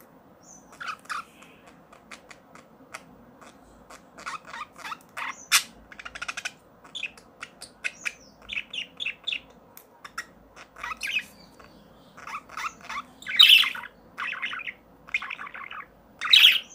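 Birds chirping and squawking in short, irregular calls, louder about two-thirds of the way through and again near the end.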